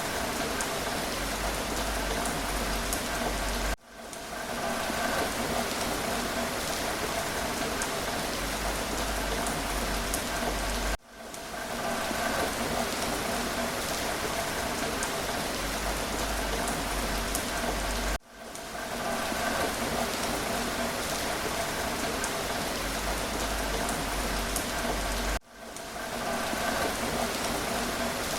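Steady rain: an even hiss of falling rain with scattered drops hitting surfaces. About every seven seconds the sound drops out abruptly and swells back within a second, a repeating seam in a looped recording.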